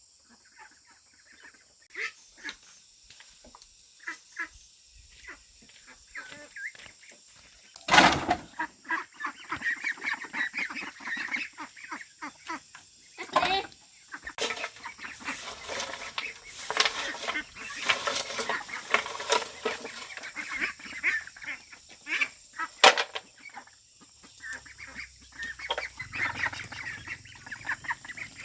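A flock of domestic waterfowl calling noisily, many overlapping honks and quacks that begin after about two seconds. Three loud sharp knocks stand out above the calls, about eight, thirteen and twenty-three seconds in.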